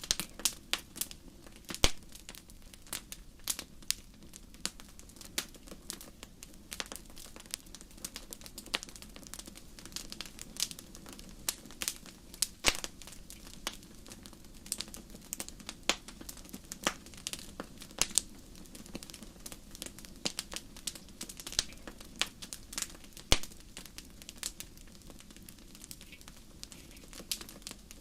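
Wood fire crackling and popping in a fireplace: irregular sharp pops and snaps, several a second, over a low steady rush of the flames.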